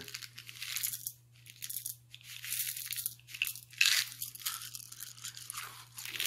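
Crunching and chewing of crunchy candy-coated chocolates, M&M's Minis, in irregular bursts of bites and chews.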